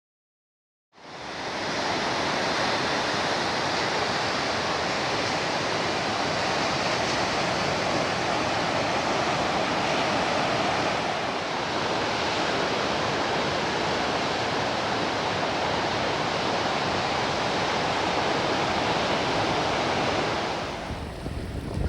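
Heavy sea surf: a steady rush of breaking waves that fades in about a second in and holds even. Near the end it gives way to gusty wind buffeting the microphone.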